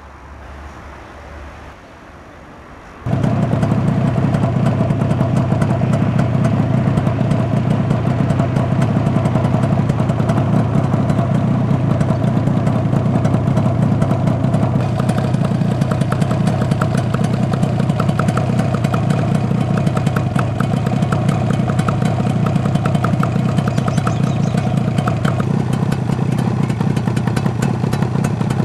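1974 Suzuki GT250's air-cooled two-stroke parallel-twin engine starts abruptly about three seconds in, then idles steadily.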